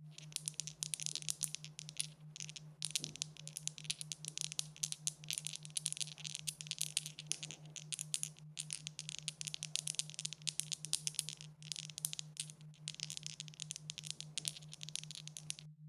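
Dice being shaken together: a dense, fast rattle of small clicks with a few short breaks, over a steady low hum.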